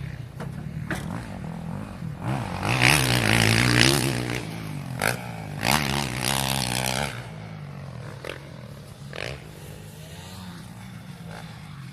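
Motocross bike engines running: a steady low engine hum throughout, with a bike revving loudly, its pitch climbing and falling, about two and a half seconds in and again around six seconds, before it fades to the background hum.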